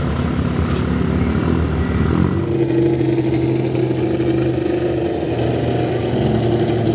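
Diesel engine of a 1985 Chevy pulling truck running hard under load as it drags a weighted sled. About two seconds in the sound changes, and a steadier, lower drone holds after that.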